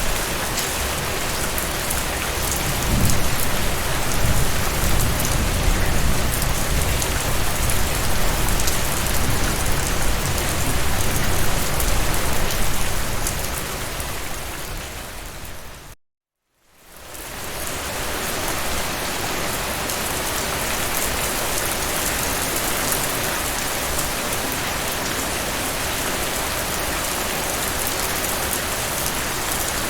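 Steady heavy rain falling on surfaces, with a low rumble of distant thunder through the first half. A little past halfway the rain fades out to a moment of silence, then fades back in.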